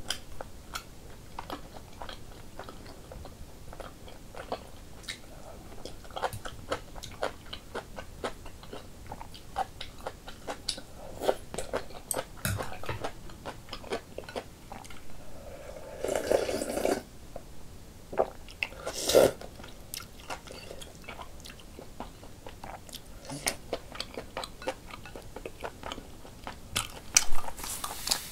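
Close-miked chewing and crunching of kimchi and rice cake soup, with many short clicks and taps through it. A few louder noisy bursts come in the second half.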